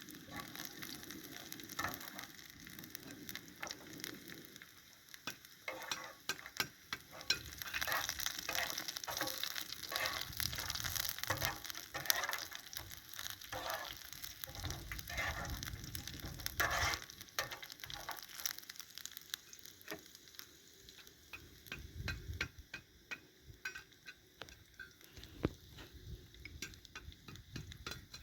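Food sizzling as it fries in a pan, with a utensil stirring and scraping against the pan in many short irregular strokes.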